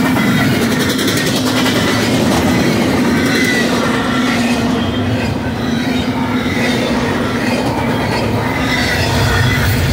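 BNSF double-stack intermodal train of container well cars passing close at speed: a loud, steady rumble of steel wheels on rail, with thin high wheel squeal running through it.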